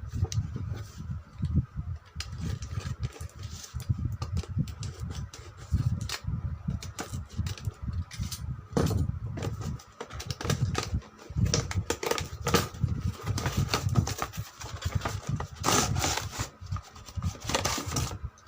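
Handling and unpacking a boxed toy remote-control car: cardboard and plastic packaging rubbing, scraping and clicking in an irregular stream.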